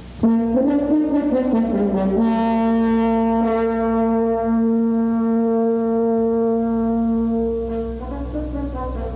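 Brass music opens loudly: a short moving phrase, then one long held note, with the melody moving again near the end.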